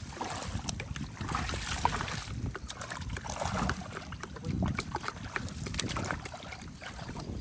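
Water splashing and sloshing in uneven surges, with many small scattered clicks and knocks.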